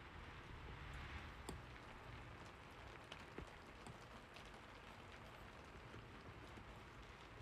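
Soft, steady rain with a few individual drop ticks scattered through it.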